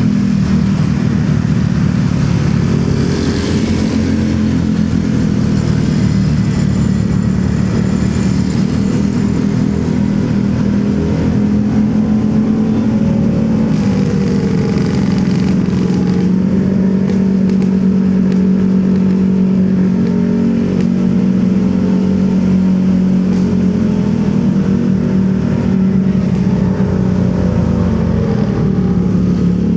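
Motorcycle engine running under way in city traffic, its pitch rising and falling a few times with the throttle, over a steady rush of road and traffic noise.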